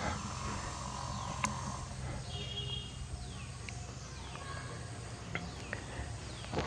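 Forest ambience with scattered bird calls: short whistled notes and repeated downward-sliding calls, over a low steady hum, with a few faint clicks.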